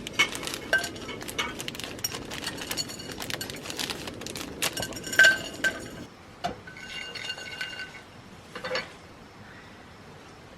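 Glass and metal cookware clinking and tapping rapidly for about six seconds while mulled wine is being prepared. A clearer ringing clink comes about five seconds in and another around seven seconds, then the handling dies down.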